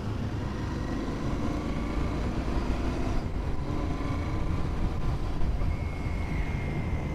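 Royal Enfield Continental GT 650's parallel-twin engine running steadily on the move, with wind noise over the microphone.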